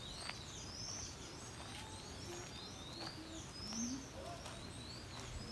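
Birds chirping, faint: a steady run of short, high, upward-sweeping chirps, about two or three a second, with a few soft low notes in the middle.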